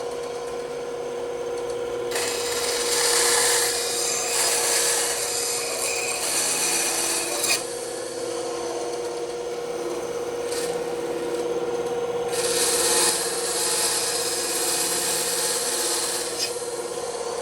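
Bandsaw running with a steady hum, its blade cutting through wood in two stretches of several seconds each: the first about two seconds in, the second about twelve seconds in.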